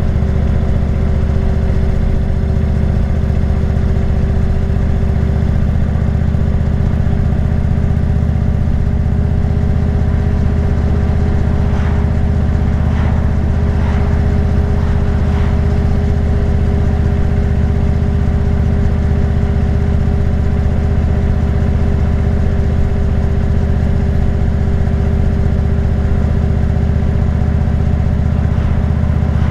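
Motorcycle engine running steadily while cruising at an even speed, heard from an onboard camera, with no revving or gear changes.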